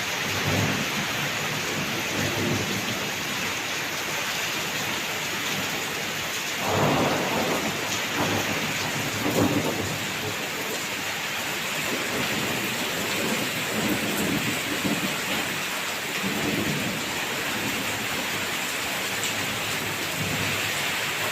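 Heavy monsoon rain falling steadily, with low rolls of thunder rising over it about a third of the way in and again soon after.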